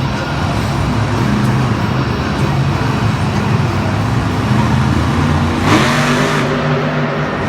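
Vehicle engines running and revving unevenly, with a louder burst of noise about six seconds in.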